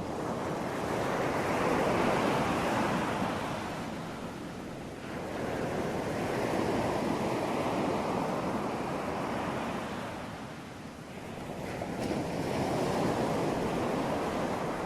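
Ocean surf: waves breaking and washing in, the hiss swelling and falling back three times.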